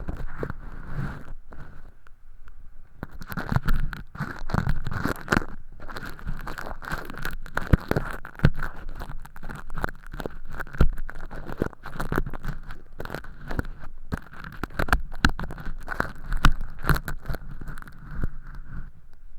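Earpick scraping inside a silicone ear model's canal, peeling away thin-skin fake earwax. It makes dense, irregular scratches and crackles, with a short lull about two seconds in.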